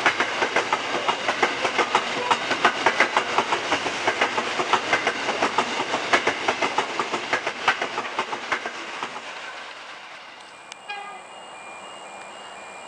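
Container freight train's wagons rolling past close by, the wheels clicking over the rail joints in a rapid run of sharp clacks over a steady rumble. The clatter fades away about nine to ten seconds in.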